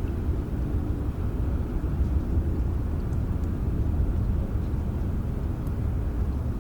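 Steady rainfall heard as an even low rumbling wash, with a few faint drip ticks on top.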